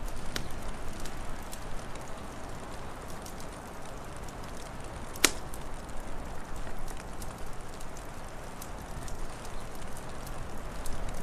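Wood fire crackling: scattered small pops and one loud, sharp pop about five seconds in, over a steady hiss and low rumble.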